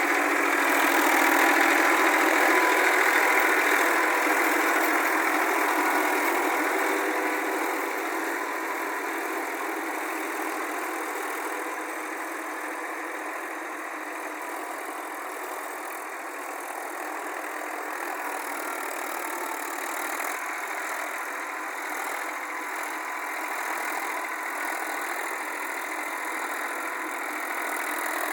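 Massey Ferguson 241 tractor's diesel engine running steadily under load while driving a rotavator. It is loudest in the first several seconds, then gradually quieter and steady.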